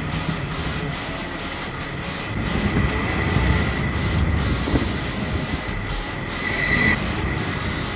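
Jeep Wrangler Rubicon engine running and revving up and down in deep snow, with a steady high whine and light ticking about two or three times a second.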